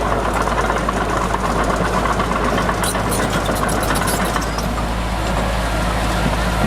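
Heavy diesel engine of earthmoving machinery running steadily, with a few light clicks about three seconds in.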